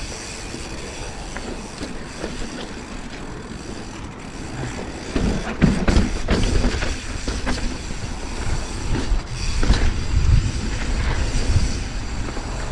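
Mountain bike rolling down a rocky trail: the bike rattles and clatters over the rocks with a steady rush of wind noise on the microphone. The knocks and rumble grow louder and busier about five seconds in.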